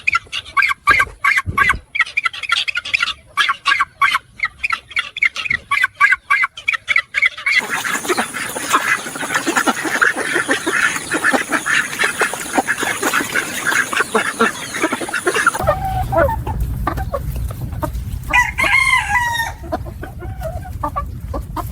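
Chickens clucking and calling in quick runs, then a dense chorus from a flock. Later comes a short wavering crow over a low rumble.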